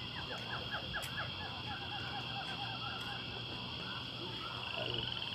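Outdoor ambience: a steady high insect drone, with a bird calling a quick run of short falling notes in the first few seconds.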